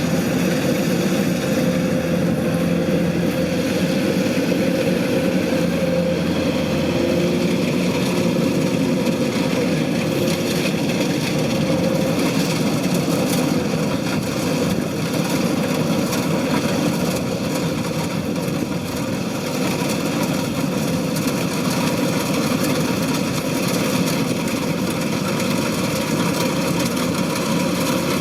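Kubota DC-105X combine harvester's diesel engine running steadily.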